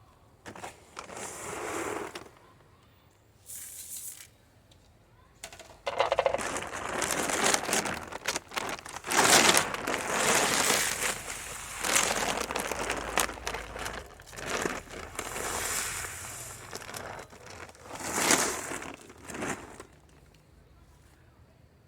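Dry chicken scratch grain being poured and handled, a rustling, rattling noise in bursts: two short ones at first, then a long busy stretch from about six seconds in that stops shortly before the end.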